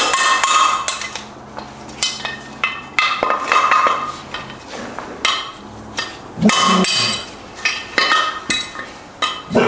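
Hammer striking a punch to drive a piece out of a Subaru six-speed transmission part: a series of sharp metallic strikes, each ringing briefly, roughly one a second or a little faster.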